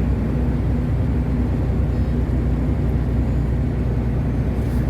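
Steady drone of a long-haul truck's engine with tyre and road noise, heard from inside the cab while cruising on the highway.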